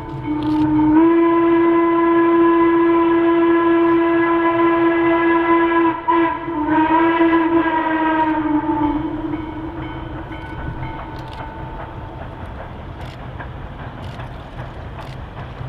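Steam locomotive whistle blown in two long blasts; the pitch rises as it opens and sags as it closes. After that comes the rumble of the train running.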